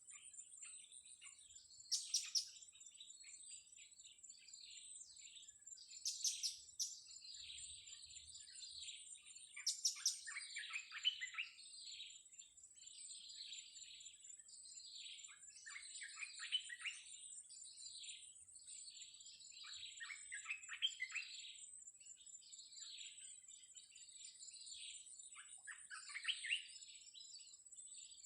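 Blue-crowned hanging parrots (serindit) calling over and over in short, high chirping phrases, with three louder, shriller calls about 2, 6 and 10 seconds in. A steady high-pitched whine runs underneath.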